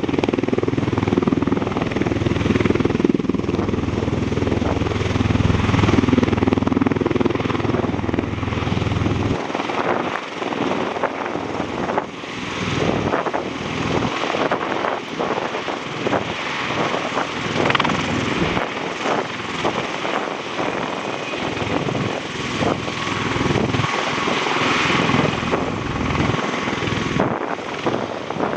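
MV-22 Osprey tiltrotor flying with its rotors and turboshaft engines running steadily and loud. A deep low rumble drops away about nine seconds in, leaving a lighter, rougher rotor noise.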